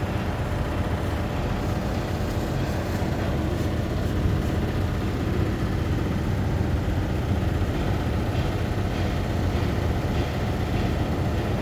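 A steady, low engine rumble with no change in level.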